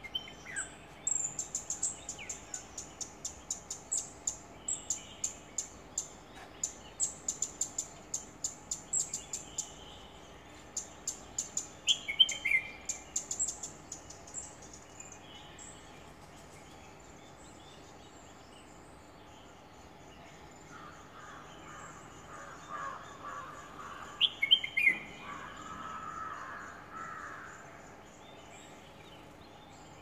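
Birds singing and calling. A long run of quick, high, repeated chirps, about two or three a second, fills roughly the first fifteen seconds, with a few sharp falling notes. A lower call follows for several seconds near the end.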